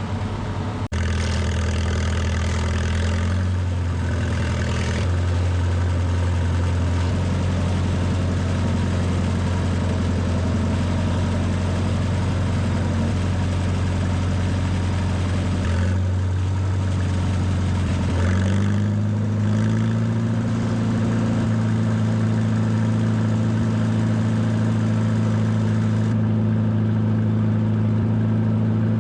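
Farmall Super H tractor's four-cylinder engine running steadily at low speed, its pitch rising a little about eighteen seconds in.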